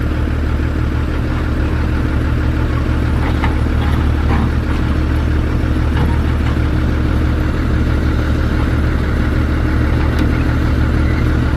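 Heavy diesel engine running steadily at idle, a deep constant hum, with a few faint clanks.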